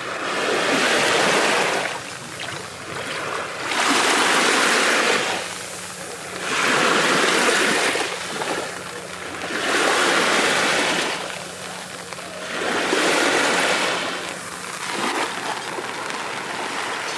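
Small sea waves breaking and washing up on a sandy beach, five swells about three seconds apart, each rising and falling away with a quieter wash between.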